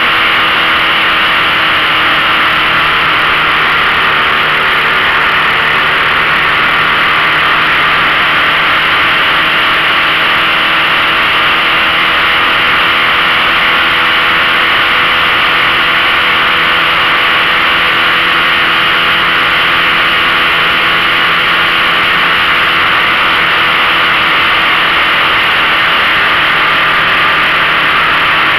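A 15 hp outboard motor running at a steady speed, its pitch unchanging, under a loud steady rushing noise.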